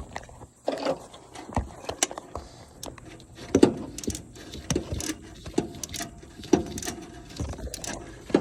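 Metal hand tools clicking and knocking against the engine while working the fuel pump's mounting nuts loose. Irregular clinks, a few of them louder, with no steady rhythm.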